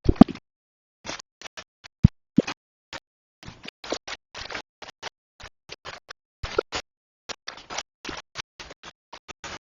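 Kitchen utensils scraping and knocking in short, irregular strokes, with a couple of heavier knocks at the start and about two seconds in.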